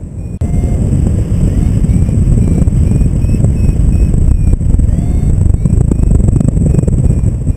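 Heavy wind buffeting on the microphone in flight, starting suddenly about half a second in and cutting off just before the end. Under it a paragliding variometer keeps beeping in short repeated tones, some sliding in pitch.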